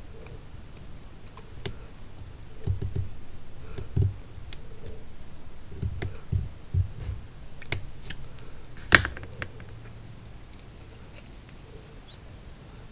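Small objects being handled on a workbench: scattered light clicks and soft low knocks, with one sharp click about nine seconds in.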